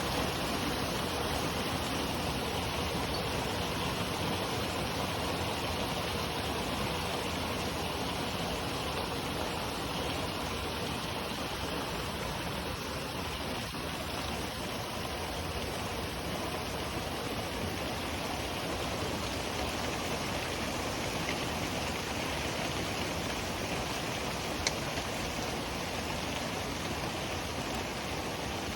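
Heavy rain pouring down in a steady, dense hiss, with one faint tick about 25 seconds in.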